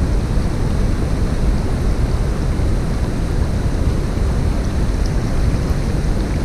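Steady rushing of a mountain stream, a constant deep noise with no breaks.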